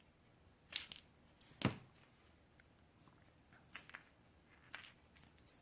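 A small jingle bell tinkling in about five short, separate shakes, with one duller knock about one and a half seconds in.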